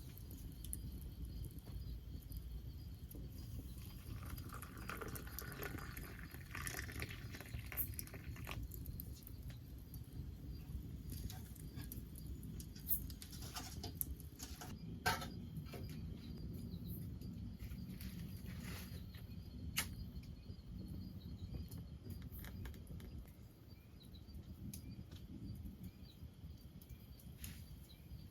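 Quiet forest night ambience: faint insects chirping over a low steady rumble, with a few scattered sharp taps or clicks, the clearest about midway through.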